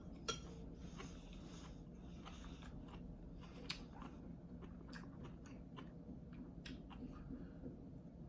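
Close-miked chewing of rice noodles (pancit bihon): soft, wet mouth clicks scattered throughout, with two sharper clicks, one just after the start and one about three and a half seconds in.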